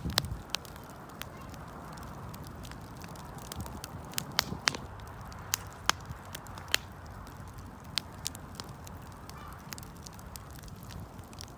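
Wood campfire burning: irregular sharp crackles and pops over a soft steady hiss, with a cluster of louder snaps around the middle.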